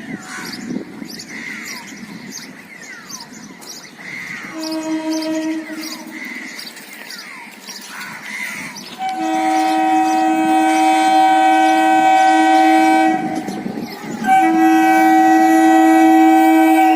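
Horn of an Indian Railways suburban local train: a short, quieter blast about five seconds in, then a long loud blast of about four seconds and, after a brief break, another of about three seconds.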